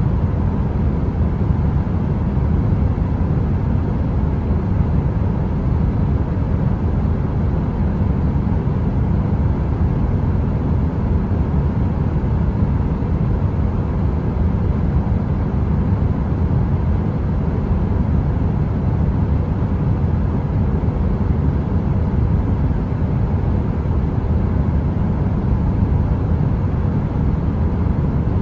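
Steady, unchanging heater noise like brown noise: a deep rushing hiss weighted to the low end, with a faint steady tone underneath and no crackling.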